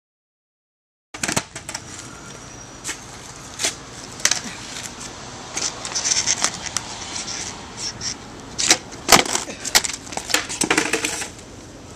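Skateboard rolling over pavement, with many sharp clacks as the board is popped and lands during trick attempts, the loudest in the second half.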